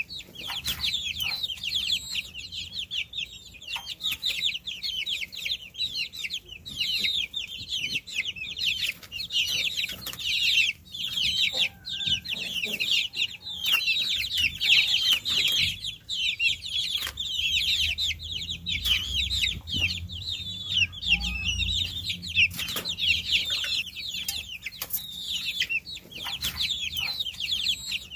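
A flock of baby chicks peeping continuously, many high, short, falling chirps overlapping at once. A faint low rumble joins in briefly past the middle.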